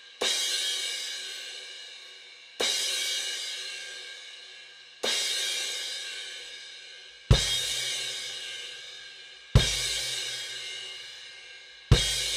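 Istanbul Mehmet IMC Brilliant cymbal struck six times, about every two and a half seconds, each hit left to ring out and fade. The last three hits are heavier and have a low thump under them.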